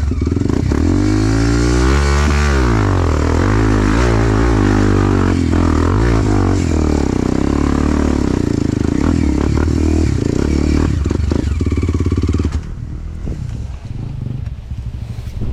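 Enduro dirt bike engine revving up and down under load as it climbs a trail, the pitch rising and wavering with the throttle. About twelve seconds in the engine sound drops away sharply, leaving a quieter hiss.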